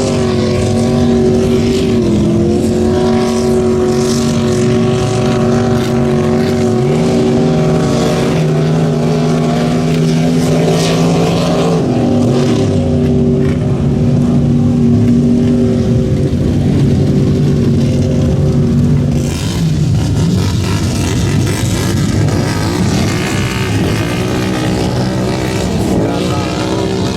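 Mud bog truck engine held at steady high revs, with a second engine revving up and down beneath it. The high engine note drops away about two-thirds of the way through, and an engine revs back up near the end.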